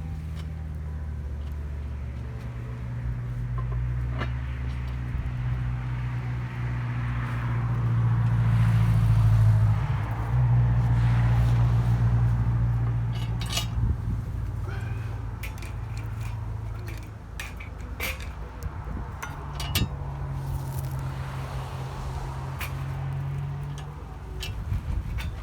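Distant race-car engines droning from the circuit, swelling to a peak about halfway through and then easing off, with light clinks of metal cookware close by.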